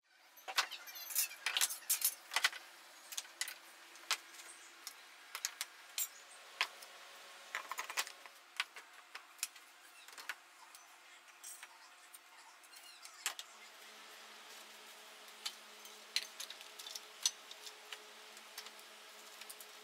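Irregular light clinks and knocks of tools being handled in a workshop, busiest in the first few seconds, over a faint steady hum that gains a lower tone about two-thirds of the way through.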